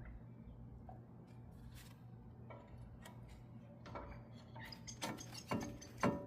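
Metal brake parts clinking and clicking as the pads and caliper hardware are handled, several sharp clinks in the second half, over a steady low hum.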